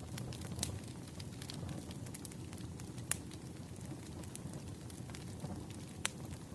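Wood fire burning: a steady low rustle with irregular sharp crackles and pops, the loudest about three seconds in.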